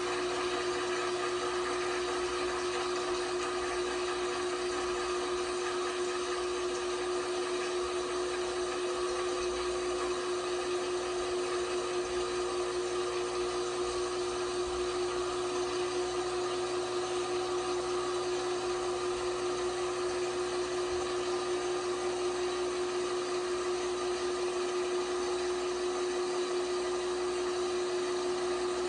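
LG washing machine running, a steady motor whine with an even hum that holds constant throughout.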